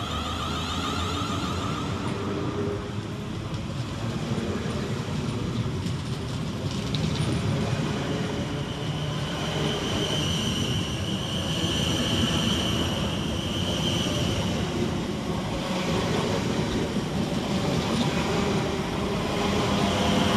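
Two coupled Class 444 Desiro electric multiple units pulling away from the platform, the traction equipment whining in steady tones over wheel and rail noise. A high whine stands out for a few seconds midway.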